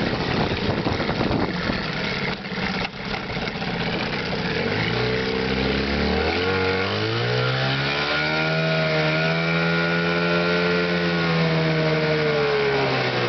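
1987 Evinrude 15 hp two-stroke twin outboard motor running. Its revs dip briefly about two and a half seconds in, then climb steadily, hold high for a few seconds, and ease back down near the end.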